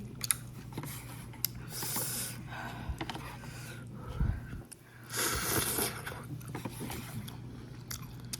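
A person eating instant noodles close to the microphone: chewing and wet mouth clicks, with two longer slurps about two seconds in and about five seconds in.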